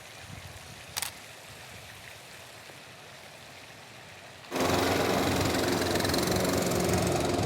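A faint steady watery hiss with one sharp click about a second in, then a lawn mower's engine cuts in suddenly about four and a half seconds in and runs steadily and much louder.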